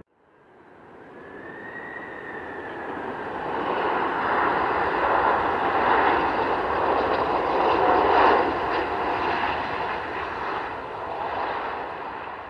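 Airliner's engines growing louder as it passes, loudest about eight seconds in, then easing off a little.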